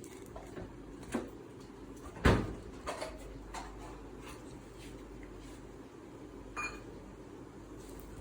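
A few scattered knocks and clicks of kitchen handling, like a cupboard or appliance door and containers being moved, the loudest about two seconds in, over a steady low hum.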